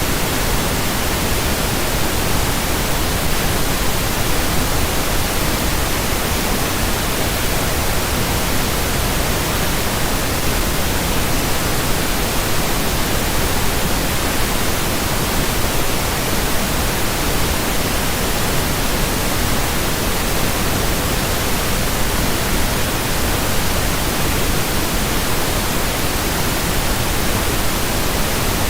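Steady, unvarying pink noise: an even hiss with no pattern or events.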